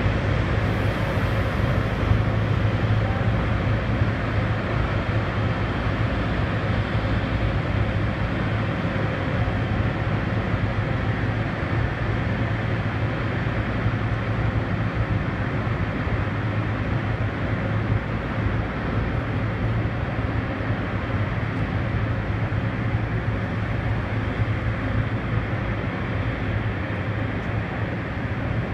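Russian Railways passenger coaches rolling slowly past along a platform: a steady rumble of wheels on rails with a constant low hum.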